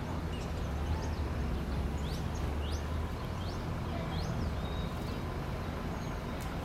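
Small birds chirping in short rising calls, one or two a second, over a steady low rumble of city traffic.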